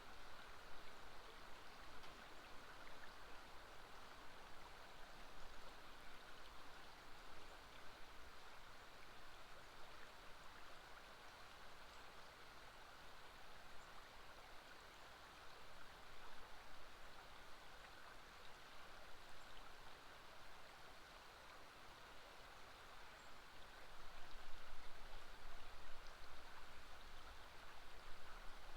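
River water flowing steadily, a faint even rush that grows a little louder near the end.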